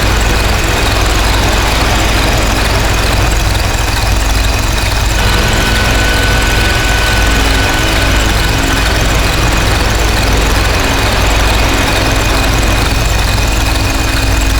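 Harsh noise drone: a dense, loud, unbroken wall of distorted noise from DIY synthesizers run through distortion pedals, with a heavy low rumble under it. Steady high whistling tones ride on top, and one of them comes back in about five seconds in.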